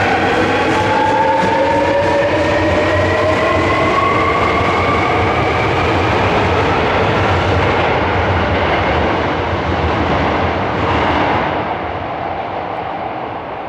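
Electric subway train pulling away from the platform, its traction motors whining in several tones that climb steadily in pitch as it accelerates, over the rumble of wheels on track. The sound eases off near the end as the train leaves.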